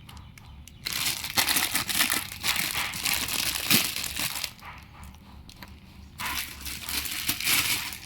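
Packaging crinkling and rustling as the new heating element for the water heater is unwrapped and handled. It comes in two long spells, the first from about a second in and the second starting around six seconds, with a few small clicks among the rustling.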